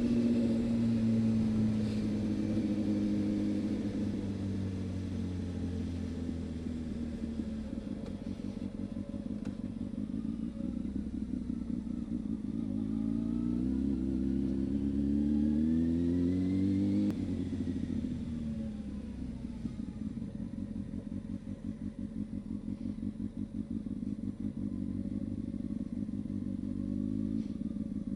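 Honda CB600F Hornet's inline-four engine while riding: the revs fall over the first several seconds as the bike slows, climb for about five seconds in the middle, drop off sharply, then run lower and unevenly.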